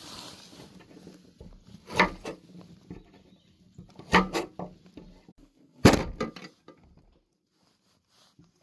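A few sharp knocks and thuds, two of them in quick succession midway, with the loudest and heaviest thud about six seconds in.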